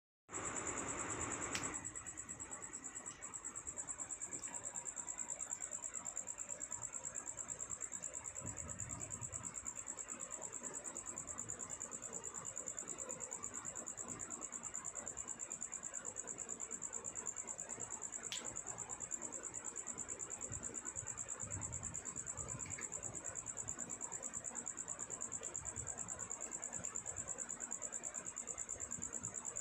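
Steady high-pitched insect trill, pulsing rapidly and unbroken throughout. A louder stretch of noise fills the first second and a half, and a single sharp click comes about eighteen seconds in.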